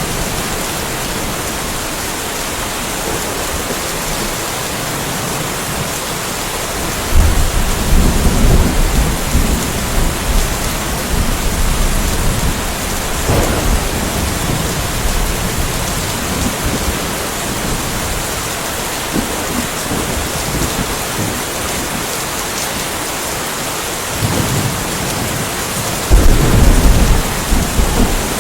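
Steady rain falling with thunder rolling twice, a long low rumble starting about a quarter of the way in and a second loud clap of thunder near the end.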